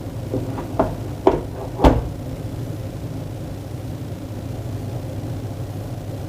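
Capsule coffee maker handled as a capsule is loaded: four short knocks and clicks in quick succession, the last and loudest about two seconds in, over a steady low hum.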